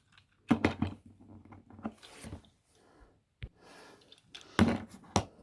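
Small plastic toy parts clicking and rattling as a Transformers figure is handled and transformed, with a cluster of sharp clicks about half a second in and more near the end.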